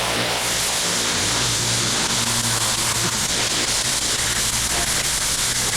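Small petrol engine running steadily under a loud, even hiss of rushing spray or air, with no change in speed.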